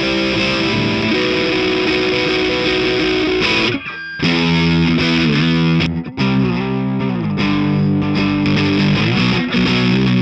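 Overdriven electric guitar, a Gibson Les Paul Custom through a Greer overdrive pedal into a Marshall JCM800 combo, playing sustained distorted chords with sliding changes. There is a short break about four seconds in.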